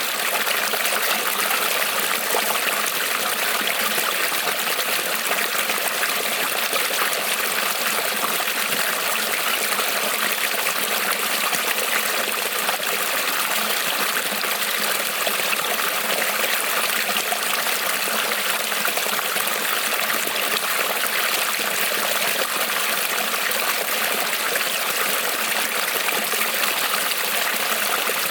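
A creek rippling and trickling over stones: a steady, even rush of running water.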